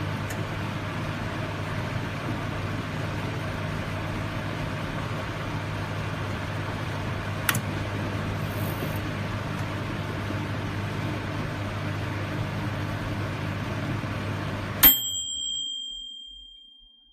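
Microwave oven running with a steady electrical hum and a faint click about halfway through. Near the end the hum cuts off at the end of the cycle, and a single chime rings out and fades away.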